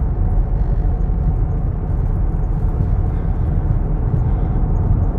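Steady road noise inside a moving car's cabin: a low rumble of engine and tyres on pavement, with an even hiss above it.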